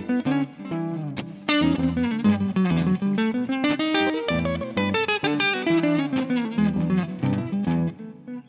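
Guitar playing fast single-note jazz lines, a lick idea played over an E minor backing loop, with the loop's bass notes sounding underneath.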